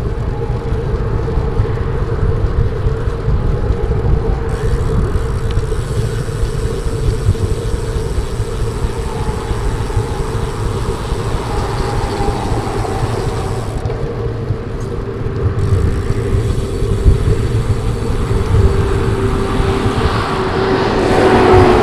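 Wind rushing over a moving cyclist's microphone, with road-bike tyres running on a concrete path and a steady hum underneath. Near the end a tone falls slowly in pitch.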